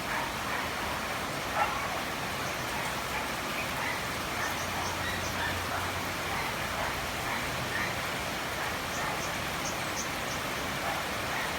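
Steady rain falling, a constant hiss, with a few faint, short, high bird chirps in small clusters. There is one brief, sharper, louder sound about one and a half seconds in.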